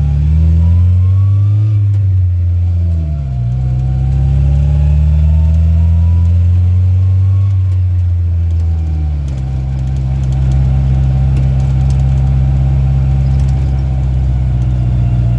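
Rat rod truck's engine pulling through the gears while driving: its note climbs, drops at a shift about two seconds in, climbs slowly again, then falls about nine seconds in and holds a steady drone to the end.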